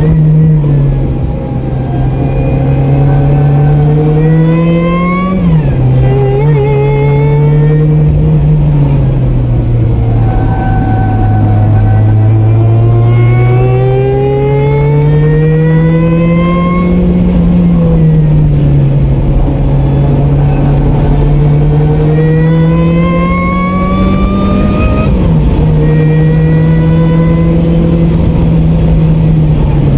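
Supercharged Mazda Miata four-cylinder engine on track, heard from inside the car: revs climb under acceleration, then fall off as the driver lifts or shifts, several times over, with a few sudden drops at gear changes.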